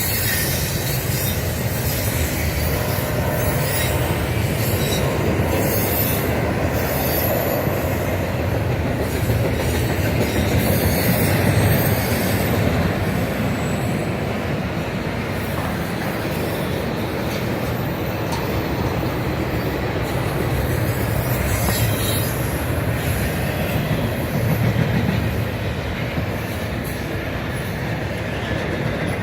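Intermodal freight train cars rolling past close by: a steady rumble of steel wheels on rail with clicking over the rail joints.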